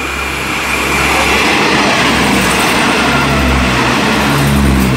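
Passenger train passing close alongside on the adjacent track: a loud, continuous rush of wheels on rail and moving air. A diesel engine's low hum grows in during the last couple of seconds.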